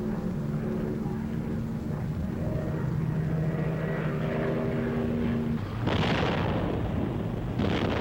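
Propeller aircraft's piston engine droning steadily, then two loud explosions, one about six seconds in and another near the end, typical of a ground-attack strike.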